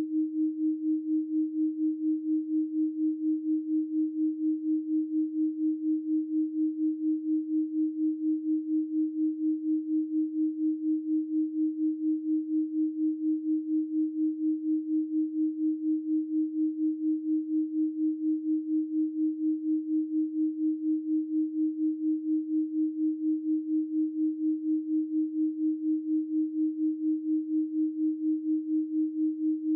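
A 312 Hz pure sine tone, electronically generated, held at one steady pitch. Its loudness swells and dips evenly about three times a second.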